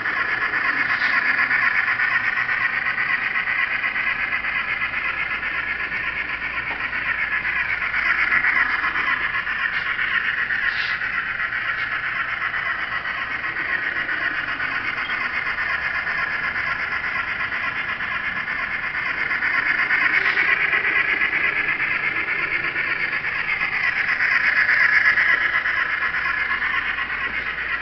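N scale model steam locomotive pulling its train along the track, making a steady high-pitched running whine that swells louder three times as the train comes nearer.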